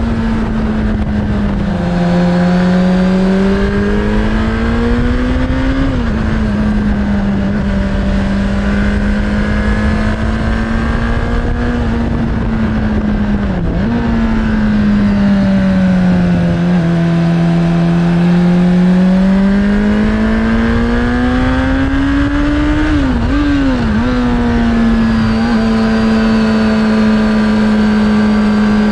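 Suzuki Bandit 600's inline-four engine running through a Hashiru aftermarket exhaust while under way. The engine note rises and falls gently with the throttle, with a short dip about halfway through and a quick wobble in pitch about three-quarters of the way in, over a steady rushing noise.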